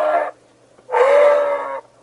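An animal calling loudly: the end of one long, pitched call, then a second call of about a second starting near the middle.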